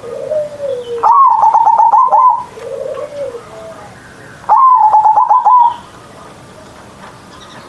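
Zebra dove (perkutut) cooing: two loud, rapid stuttering coo phrases, each about a second long, about a second in and again about four and a half seconds in, with softer, lower coos before and between them.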